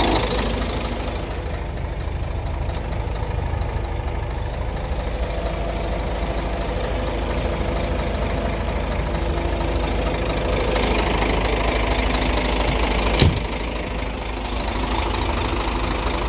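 Scania R114 truck's straight-six diesel engine idling steadily. One sharp knock about three seconds before the end.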